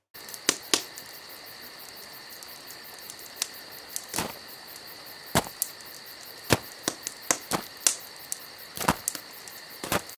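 Insects chirring steadily at a high pitch, with sharp cracks and snaps at irregular intervals, a dozen or more, some loud.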